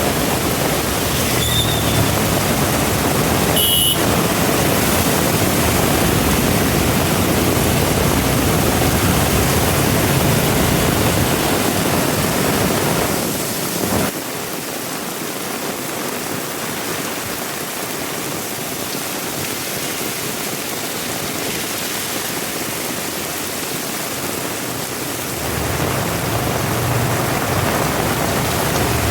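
Heavy rain falling steadily in a dense hiss. A low rumble runs under it for the first half, drops away suddenly about halfway through and comes back near the end.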